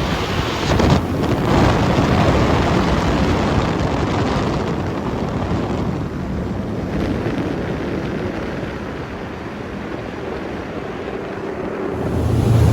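Wind buffeting the microphone and water rushing over the running outboard motor of a small speedboat underway. Near the end the engine note rises into a loud, steady hum.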